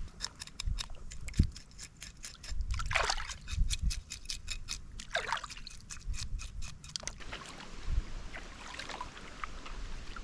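Water dripping and splashing around a canoe on the water, with many quick drips and small splashes, such as water running off a paddle. There is one short knock about one and a half seconds in.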